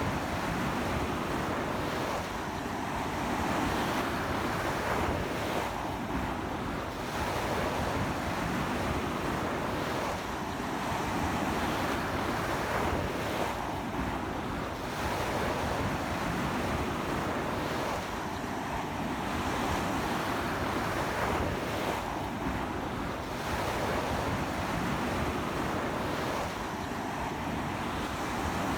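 Sea waves breaking and washing up a beach in strong wind, the surf swelling and easing every few seconds, with wind buffeting the microphone.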